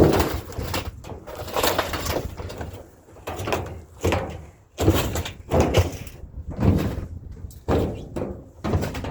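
Scrap metal banging and scraping as it is handled and loaded onto a truck: a series of irregular knocks and clanks, about a dozen, with a low rumble underneath.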